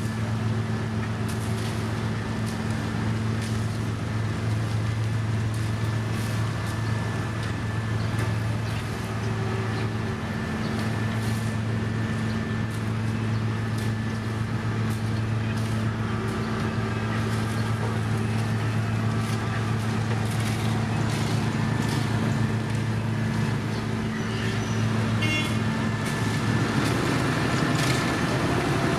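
Diesel engine of heavy road-construction machinery running steadily, with scattered light clicks and knocks over it.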